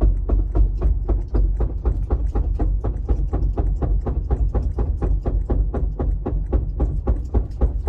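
A 2014 Lexus IS250 AWD making a rapid, even knocking, about five knocks a second, over a low rumble. It is a fault of unknown cause: the owner has found the driveshaft and its center bearing in good condition.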